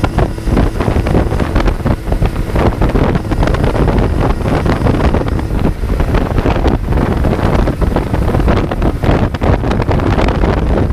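Wind rushing over the microphone of a moving Kawasaki Z900 motorcycle, with the bike's inline-four engine running beneath it. Steady and loud, with no let-up.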